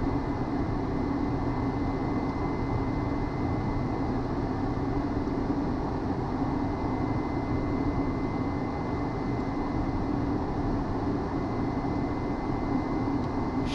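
Steady cockpit noise of a Hawker 800XP business jet on final approach: airflow and turbofan engine drone, with a steady low hum and a thin, steady high tone.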